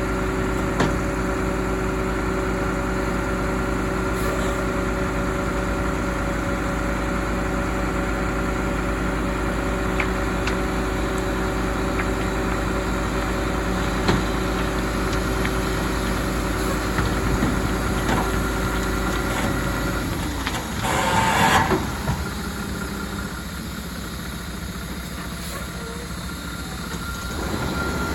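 Heavy diesel truck engine running steadily. About two-thirds of the way through the drone drops away after a short, loud burst of noise, and the sound stays quieter after that.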